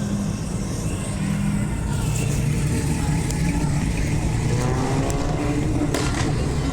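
A car engine running steadily at low revs.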